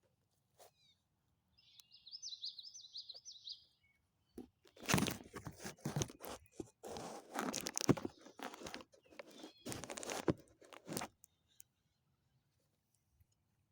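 A songbird sings a short trilled phrase, then dry twigs and leaves crunch and snap for several seconds.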